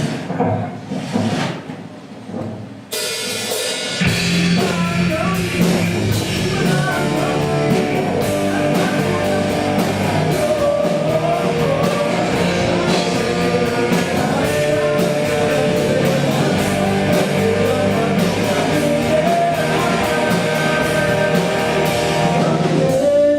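Live rock band playing through the PA in a sound check: drum kit, electric guitar and bass come in together suddenly about three seconds in, after a quieter start.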